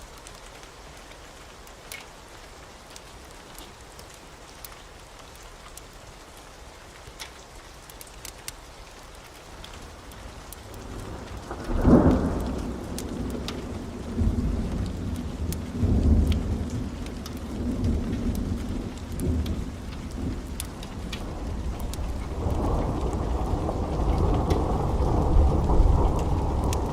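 Steady rain with scattered drip ticks. About twelve seconds in comes a sharp thunderclap, followed by rolling thunder rumbles that swell again near the end.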